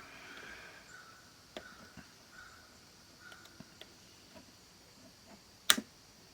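Small clicks and taps from handling an analog multimeter and its test leads at a workbench, with one sharp click about five and a half seconds in.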